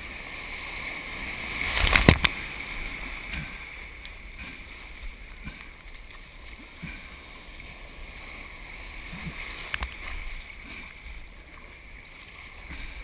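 Water rushing and splashing around a surf kayak paddling in ocean surf, over a low rumble. A loud sharp splash comes about two seconds in and a smaller one near the end.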